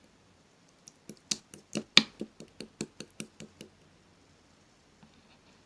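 Blue slime being pressed and worked by hand, giving a quick run of about fourteen sharp pops and clicks, about five a second, the loudest near the middle, then stopping.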